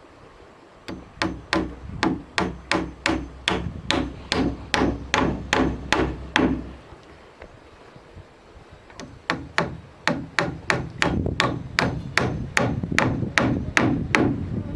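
A hammer striking wood in two runs of steady blows, about three a second, with a pause of about two seconds between them. This fits nailing during railing work.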